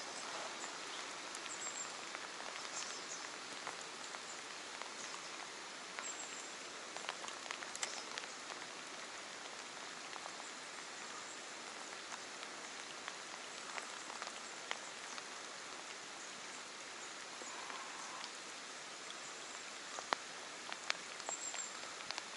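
Steady rain falling on the surface of the water, an even hiss with scattered sharper taps from single drops close by.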